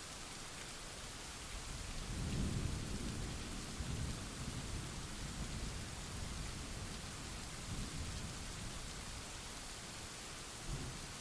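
Steady rain hiss with a roll of thunder: a low rumble swells about two seconds in, rolls on for several seconds and fades, and a short low thump comes near the end.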